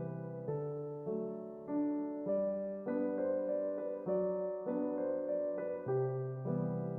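Background piano music: a gentle melody of notes that change about twice a second.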